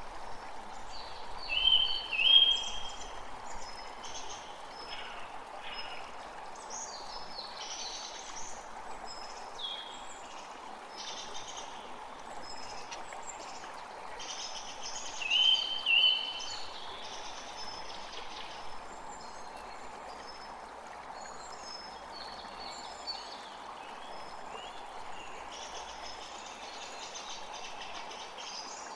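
Steady rushing of a stream, with many birds chirping and calling over it. The loudest calls come as short pairs about two seconds in and again about sixteen seconds in.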